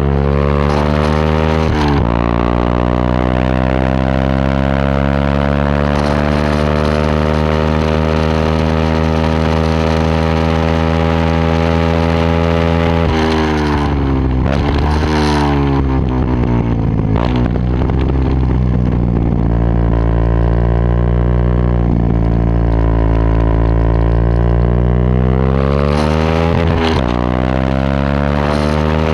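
Yamaha WR125X's single-cylinder four-stroke engine running through a Takkoni aftermarket exhaust. The note drifts slowly up and down, with abrupt pitch changes about two seconds in, around the middle and near the end.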